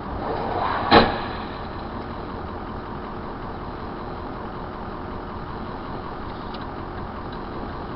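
Steady car engine and road noise, broken about a second in by one sharp bang of a collision.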